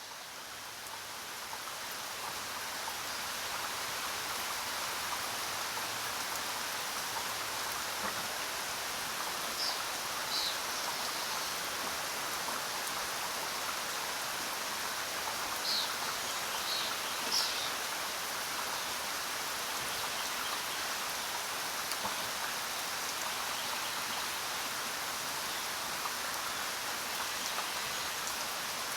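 Steady jungle rain, an even hiss of falling rain that fades in over the first few seconds. A few short, high bird chirps sound twice, once about a third of the way in and again a little past the middle.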